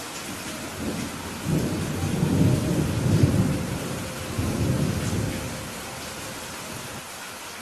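Steady rain hiss with a low, rolling thunder rumble that builds about a second and a half in, is loudest around three seconds, and dies away before six seconds.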